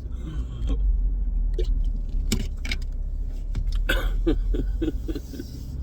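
Car engine running with a steady low rumble heard from inside the cabin, with a few short clicks and rattles about two and four seconds in.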